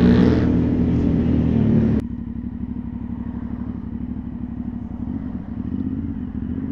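Aprilia Shiver 900's V-twin engine running, loud at first; about two seconds in the sound cuts abruptly to a quieter, duller engine note as the bike creeps along at low speed in slow traffic.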